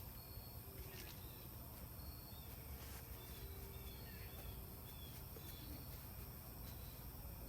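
Faint bird chirps, short high notes repeated every half second or so, over a steady low outdoor rumble.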